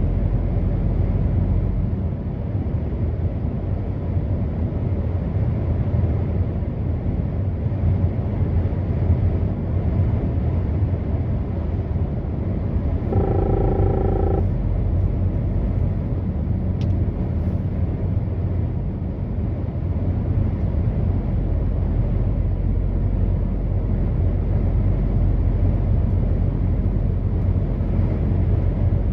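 Truck engine and road noise, a steady low rumble of the truck driving along. About thirteen seconds in, a brief pitched tone sounds for just over a second.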